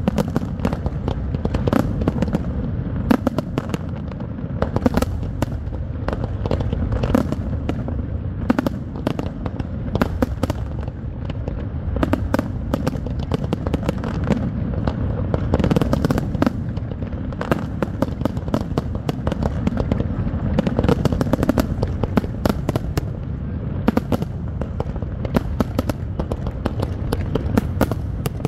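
Aerial firework shells bursting in a rapid, continuous barrage: many sharp bangs a second over a steady low rumble.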